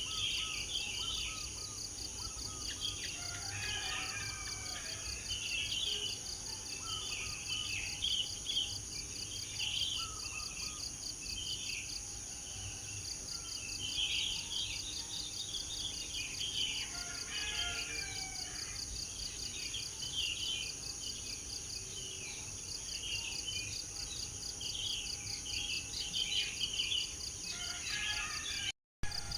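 Many small birds chirping and singing in short, overlapping phrases over a steady high-pitched insect chorus of crickets, one of them a fast pulsing trill. The sound cuts out briefly near the end.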